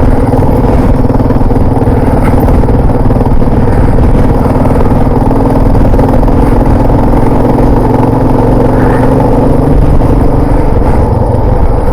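Adventure motorcycle engine running steadily on a dirt trail, its engine note held level, with a dense rumbling noise beneath it.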